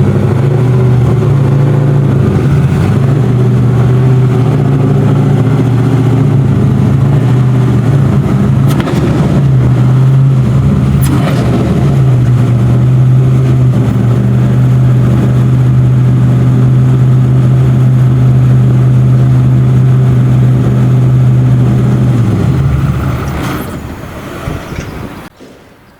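A supercar's engine running loud and close at a steady, even pitch. Near the end it fades away, then cuts off sharply.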